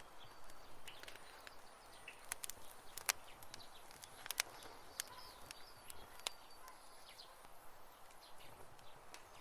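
Wood campfire crackling: irregular sharp pops and snaps over a faint hiss, with two louder pops about three and four and a half seconds in.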